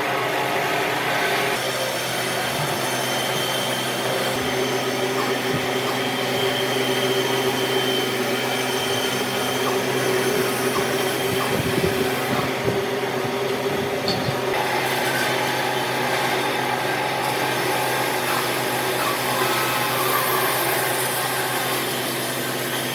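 An electric power tool running steadily, a continuous motor whine with noise, at an even level.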